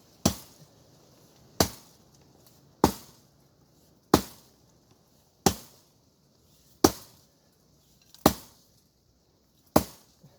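An axe chopping hard wood: eight evenly paced strokes, one about every second and a half. The wood is hard and the axe is blunt.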